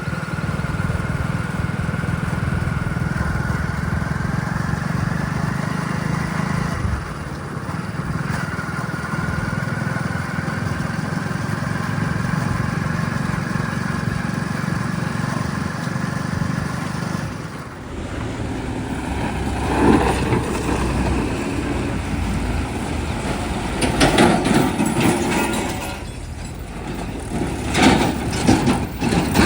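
Diesel engines of earthmoving machinery running steadily, with a whine that slowly rises in pitch in the first half. After a dip, a series of irregular knocks and clatter begins, loudest in the last few seconds.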